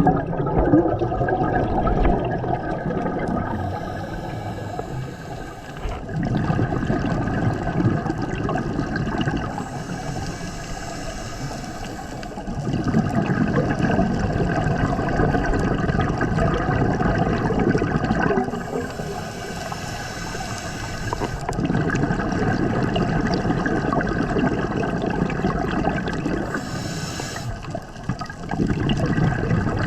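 Scuba diver breathing through a regulator underwater: a hissing inhale, then a longer gush of exhaust bubbles, repeating about every eight seconds.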